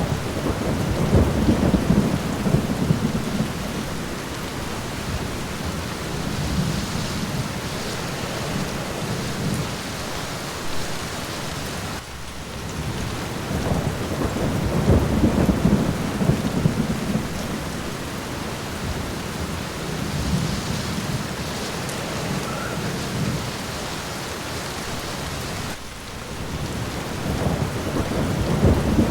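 Steady rain falling, with rolling thunder rumbling low three times: about a second in, around the middle, and near the end.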